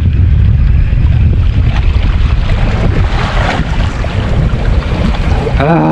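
Strong wind buffeting the microphone in a loud, steady low rumble on a small boat at sea, with a brief brighter hiss around the middle.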